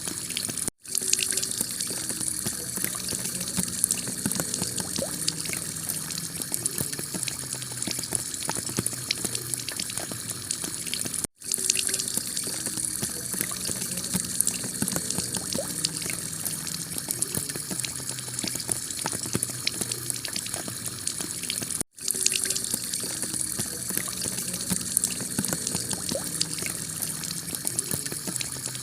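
Heavy rain falling on a clay tile roof, a dense steady hiss full of fine drop ticks with water running off. It drops out for an instant three times, about ten seconds apart, where the recording loops.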